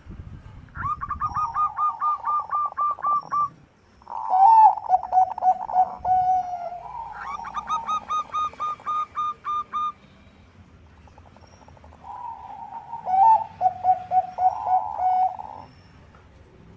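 Bangkok perkutut (zebra dove) singing: four phrases of rapid, evenly spaced coo notes, each opening with a short rolling whirr, with brief pauses between phrases.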